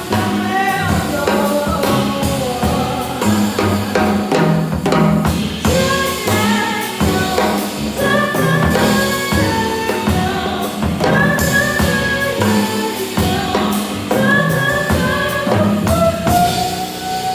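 Jazz vocal performance: a singer's melody over a band with drum kit. Near the end the voice slides up into one long held note.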